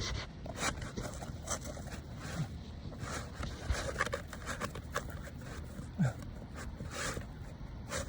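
Irregular scrapes, rustles and light clicks of handling on an asphalt-shingle roof, with a brief low sound about six seconds in.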